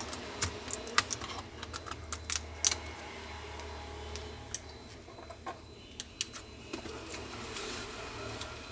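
Irregular small clicks and taps of hands handling laptop parts and tools, thickest in the first three seconds and sparser after, over a steady low hum.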